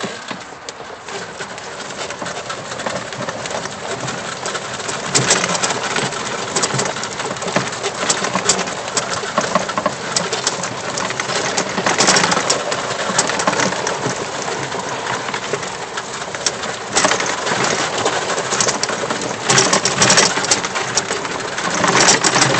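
Wind and tyre noise from riding a 2007 EZGo golf cart along a trail: a steady rushing that builds over the first few seconds and swells louder several times.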